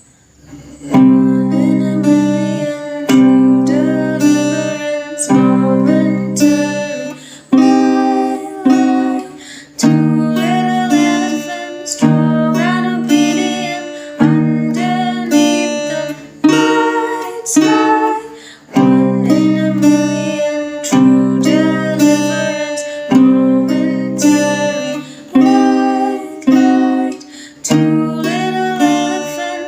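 Acoustic guitar strumming chords in a steady rhythm, with a strong accented strum about every two seconds; the playing starts about a second in.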